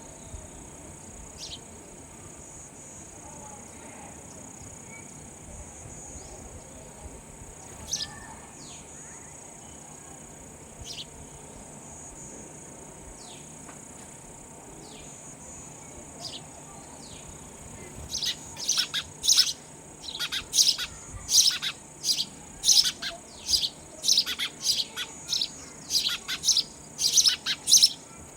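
Sparrows chirping: scattered single short chirps for the first part, then from about two-thirds of the way in a loud, rapid run of repeated chirps. A steady high-pitched insect drone runs behind.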